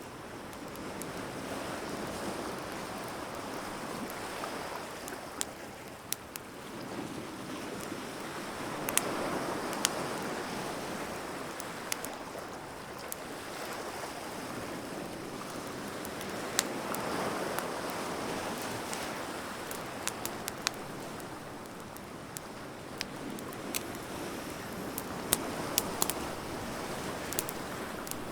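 Wood fire crackling, with sharp pops scattered throughout, over ocean waves that swell and wash in about every eight seconds.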